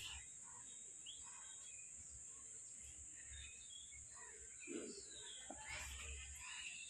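Faint outdoor background of scattered bird chirps over a steady high-pitched hiss.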